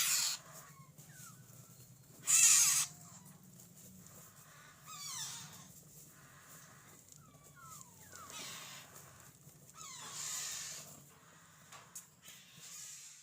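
A baby parrot making repeated harsh, screechy food-begging calls, about six of them, the loudest a little over two seconds in. Thin falling squeaks come between the calls.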